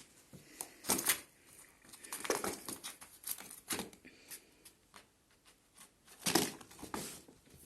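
Irregular rustling, crinkling and scratching noises in a small room, with the loudest bursts about a second in, from about two to four seconds, and about six and a half seconds in.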